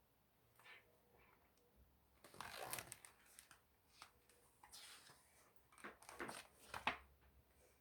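Faint paper rustling and soft clicks from a picture book's pages being handled and turned, with a sharper click near the end.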